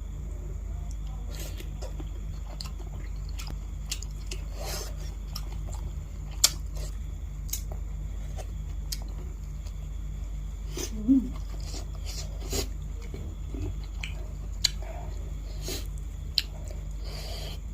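A person chewing food close to the microphone, with scattered short wet smacks and clicks, the loudest about six and eleven seconds in, over a steady low hum.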